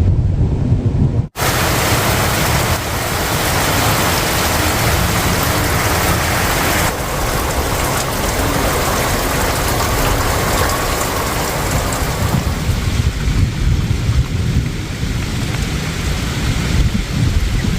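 Heavy rain pouring down in a storm, with wind buffeting the microphone as a low rumble. It is broken by a sudden cut about a second in.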